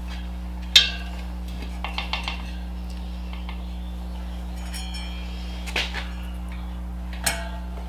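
A few light metallic clinks and knocks, the sharpest about a second in, from tools and the rim as a dirt bike tire and tube are worked onto the wheel and the valve stem is fed through the rim, over a steady low hum.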